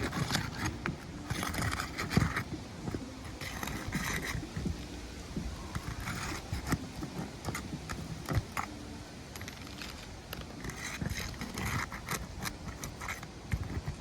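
Asphalt roof shingle being worked loose for a repair test: several spells of scraping and crackling, a second or so each, with scattered knocks and clicks between them.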